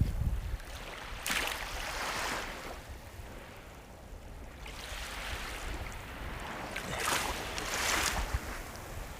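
Ocean waves breaking on the shore, two louder surges washing in about six seconds apart over a steady hiss of surf, with a low rumble at the start.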